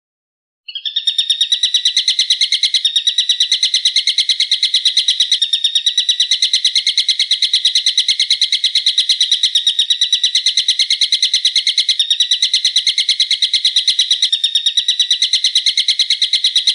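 Recorded songbird call: a sharp, fast trill of evenly repeated notes, about seven a second, that starts under a second in and keeps going without a break.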